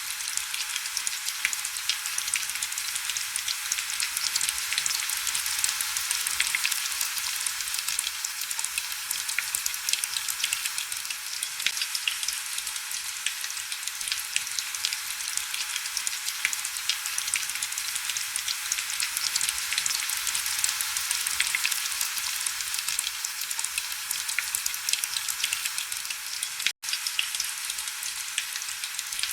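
Steady heavy rain against window glass: a dense hiss of fine drop ticks with almost no low end. It cuts out for an instant once near the end.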